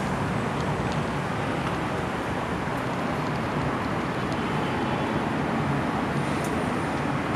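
Steady, even rumble of vehicle noise with no distinct events.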